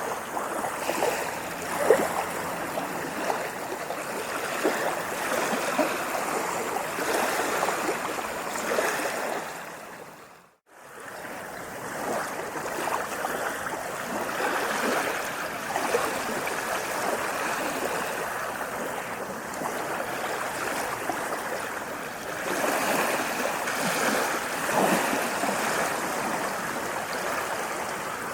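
Water splashing and lapping steadily, with many small splashes and gurgles. It dips out to silence for a moment about ten seconds in, then fades back in.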